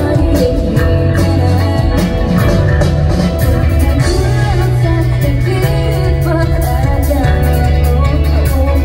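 Live J-rock band playing, with a female lead singer over electric guitar, heavy bass and drums, recorded loud from the crowd.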